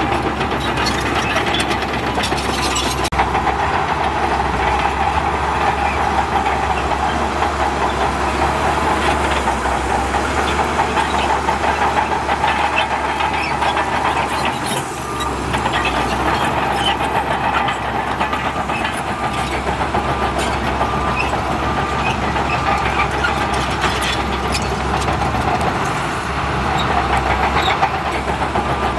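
Heavy diesel earthmoving machinery running steadily under load, with a continuous metallic clatter and a brief dip in level about halfway through.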